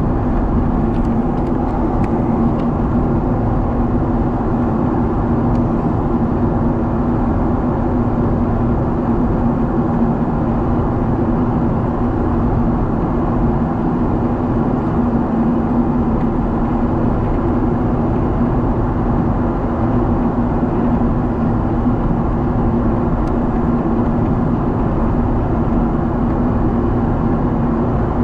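Steady roar of engine and airflow noise heard inside a Boeing 777's passenger cabin in flight, with a constant low hum running through it.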